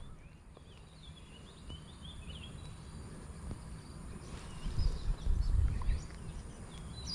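Outdoor ambience with small birds chirping in short, scattered calls, and low rumbles on the microphone about five to six seconds in.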